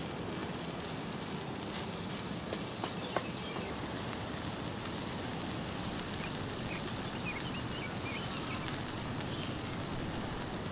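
Steady hiss of cooking over a wood fire, with a few sharp crackles about three seconds in.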